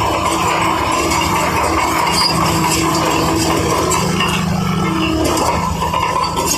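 Heavy earthmoving machinery running steadily, with a continuous engine hum and many small metallic clinks over it.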